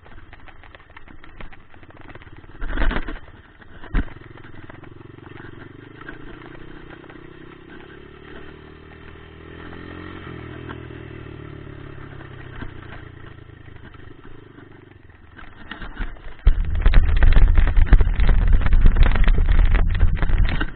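Dirt bike engine running, its pitch rising and falling, with two sharp knocks in the first few seconds. About sixteen seconds in, a much louder rough rumble takes over.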